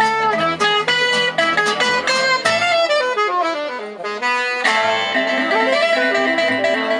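Gypsy-jazz (jazz manouche) band playing live: quick runs of plucked guitar notes, then about two-thirds of the way through a chord held and left ringing.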